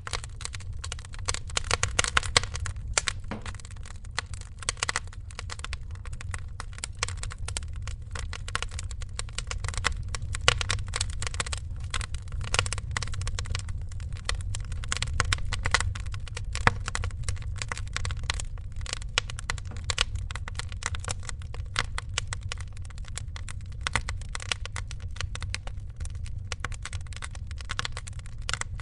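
Wood fire crackling steadily, with many irregular sharp pops and snaps over a low, steady rumble of the flames.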